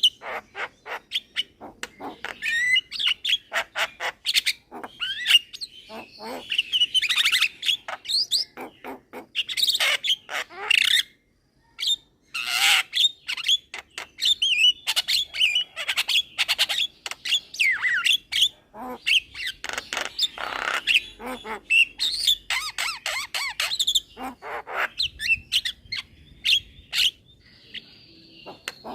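A young Javan myna singing without pause: a rapid, varied run of whistles, chattering clicks and harsh squawks, broken by a silence of about a second near the middle.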